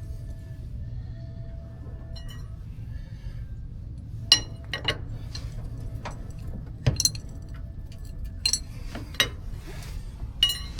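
Metal tools clinking against the steering linkage's self-locking nut as it is fitted and tightened: about six sudden, ringing clinks starting some four seconds in, over a low steady hum.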